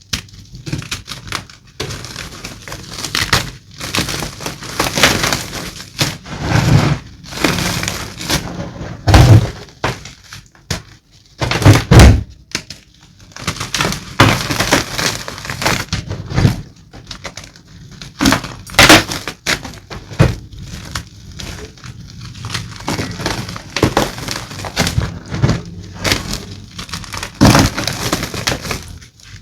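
Blocks of gym chalk being crushed and crumbled: an irregular string of crunches and cracks, several of them sharp and loud.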